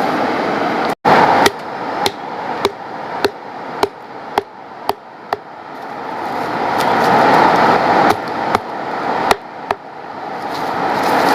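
A run of sharp, evenly spaced strikes, about two a second, then a short pause and three or four more, over a steady rushing noise. The sound cuts out for an instant about a second in.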